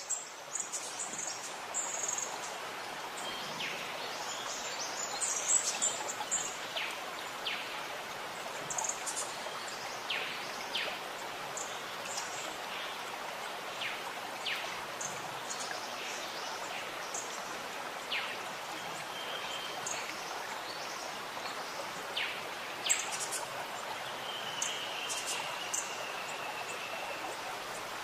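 Outdoor ambience: small birds chirping in scattered short calls over a steady background noise, with one longer held whistle about three-quarters of the way through.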